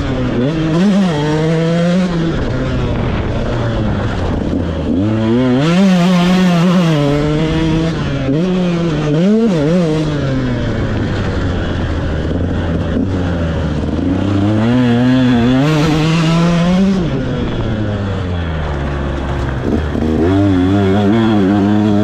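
KTM SX 125 two-stroke single-cylinder motocross bike engine revving hard, its pitch climbing and dropping back again and again as the throttle is worked.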